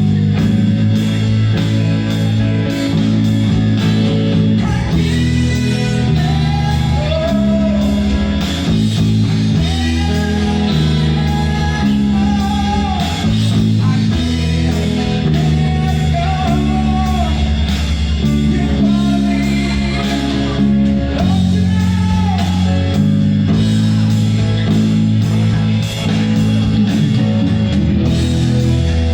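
Rock band playing a song with a singer: electric guitar and bass under a sung melody, with drums keeping a steady beat.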